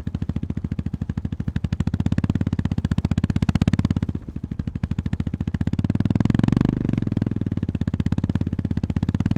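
Honda GB350S single-cylinder motorcycle engine and exhaust, firing pulses distinct, as the bike pulls along. The throttle eases briefly about four seconds in, then opens again and builds to a louder pull around six to seven seconds.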